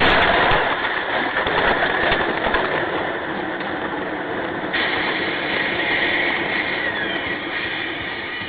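Steady running noise of a moving vehicle, a dense rumble and rush without clear pitched lines, with a sudden change in its tone about halfway through.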